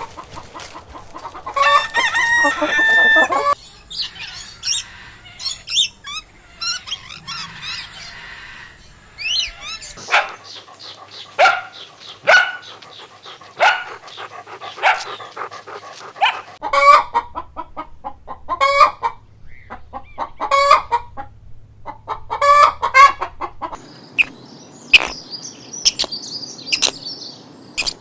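Chickens clucking in a series of short, separate calls, with a rooster crowing once near the start.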